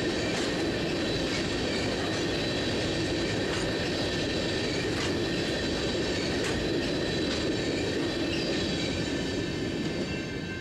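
Freight train cars rolling past at close range: a steady rumble with high-pitched wheel squeal and light clicks from the rail joints, beginning to fade about ten seconds in.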